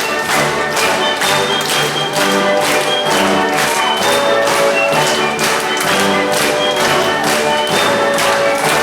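Orchestral ballet music with a brisk, steady beat and short high melody notes over it.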